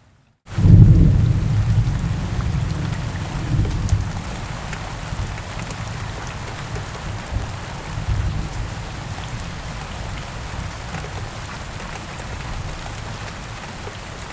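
Steady rain falling, with a thunderclap breaking in suddenly about half a second in and its low rumble slowly fading, swelling again a couple of times.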